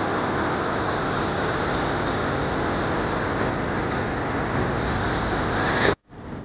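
Steady rushing roar of an ice avalanche pouring down from a collapsing glacier, cutting off suddenly near the end.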